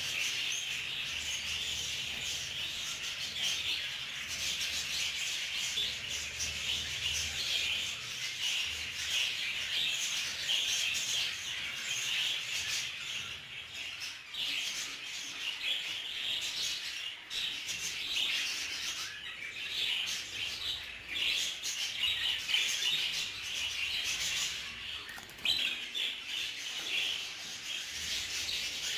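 Budgerigars chattering continuously: a dense, unbroken mix of fine chirps and raspy calls.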